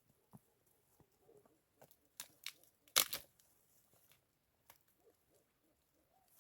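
A few short crunching and snapping sounds, scattered, the loudest a quick cluster about two to three seconds in.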